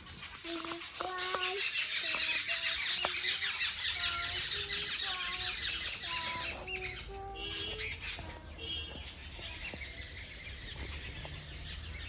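A flock of birds chirping and squawking, a dense chatter of many voices that thins out after about seven seconds, with short lower calls scattered throughout.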